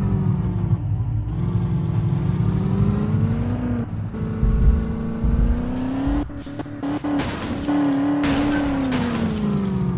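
Race car engine at high revs, climbing in pitch and dropping sharply at gear changes about one and four seconds in, then climbing again and easing off near the end.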